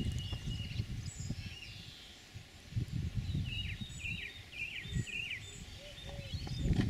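Small birds singing outdoors, with a run of four quick repeated notes about three and a half seconds in, over a low, uneven rumble.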